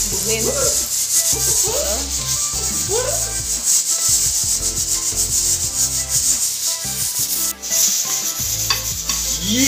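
Lobster tail frying in butter in a pan, a steady hissing sizzle with a short break about seven and a half seconds in.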